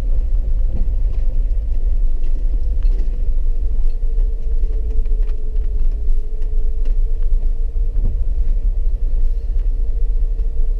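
Vehicle cabin noise while driving: a deep, steady rumble of engine and tyres with a steady mid-pitched hum that dips slightly in pitch partway through, and a few light clicks and knocks.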